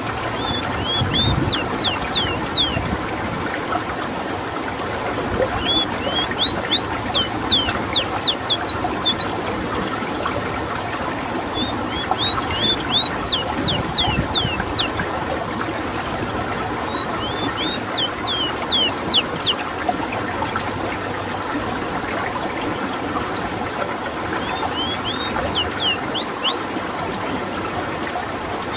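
Ruddy-breasted seedeater (rowti) singing its rolling song: five phrases, each a quick run of high sweeping notes that grow louder and end in a few longer strokes, a few seconds apart. Steady rushing water runs underneath.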